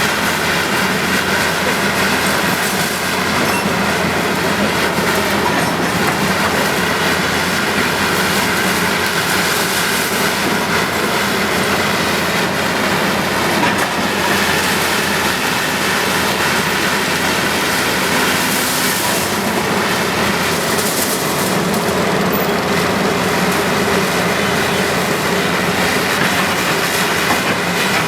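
Heavy tracked machinery at work: a bulldozer's diesel engine running steadily under the clatter and squeal of its steel tracks.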